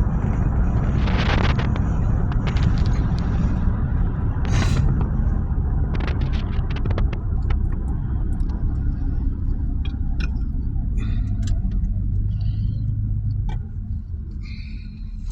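Car running with a steady low rumble, heard from inside the vehicle, with scattered light clicks and knocks. The rumble drops off near the end.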